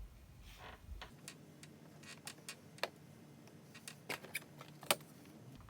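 Scattered small clicks and light rattles of hand tools, screws and plastic door trim being handled while a Jeep Wrangler door panel is taken apart. The sharpest click comes near the end.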